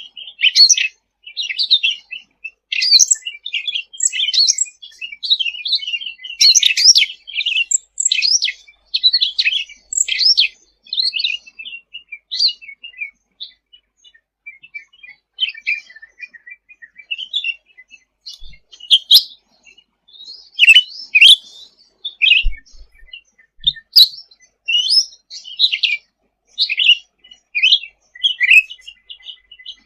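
Cucak ranting songbird singing a fast, busy string of high chirps and short trills, thinning out briefly a little before the middle.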